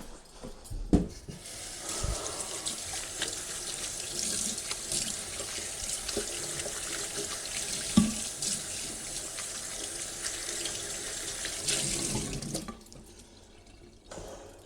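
Water running from a tap into a sink while a cloth is rinsed under it. The water comes on about a second and a half in and is turned off near the end, with a sharp knock just before it starts and another in the middle.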